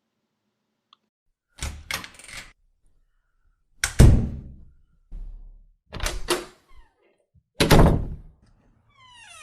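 A door being opened and shut twice: latch and handle clicks, then a heavy thud as it closes, the second cycle about four seconds after the first.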